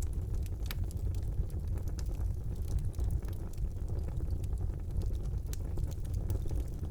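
Wood fire burning in a fireplace: a steady low rumble of the flames with frequent small sharp crackles and pops scattered throughout.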